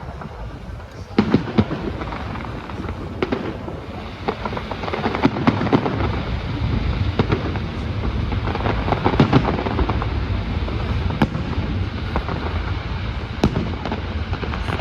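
Fireworks display: a rapid run of bangs and crackling that starts about a second in and goes on without a break, with a few louder bangs standing out.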